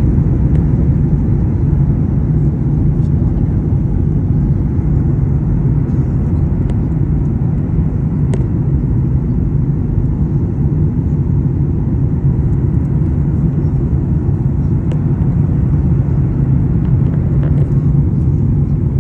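Airliner cabin noise during the approach to landing: a steady, loud low rumble of engines and airflow, with a few faint clicks.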